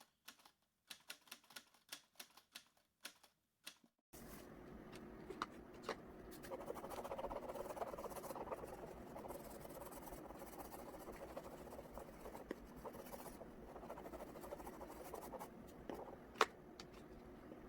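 Oil pastel scratching across paper: a run of short separate strokes, then from about four seconds in a continuous scratchy rubbing as colour is laid down, with a sharp tap near the end.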